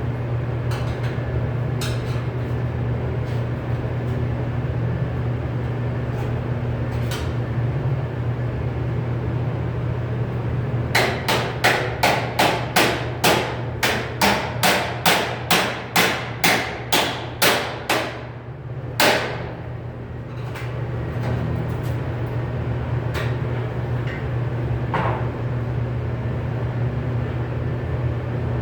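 Hammer blows on sheet metal: a quick run of about eighteen strikes over some seven seconds, then a single further blow, over a steady low machinery hum.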